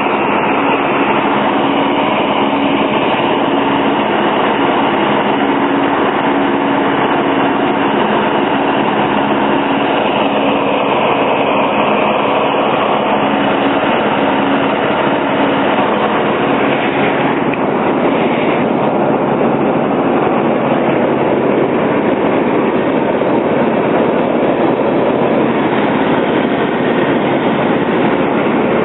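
Troy-Bilt Bronco lawn tractor's 18 hp Kohler twin engine running loud and steady at speed, with a rattling mechanical clatter. About halfway through, the sound turns broader and denser.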